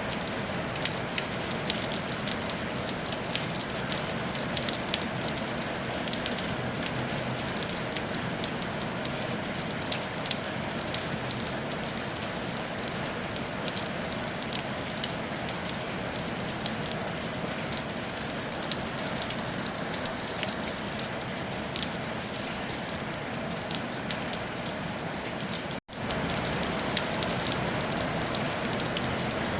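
Steady rain falling on a tile roof: a dense, even patter of many small drops. The sound cuts out for a split second near the end, then resumes as before.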